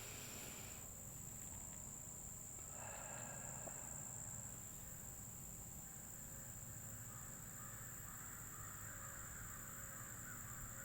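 Faint steady high-pitched trilling of crickets over quiet outdoor background noise.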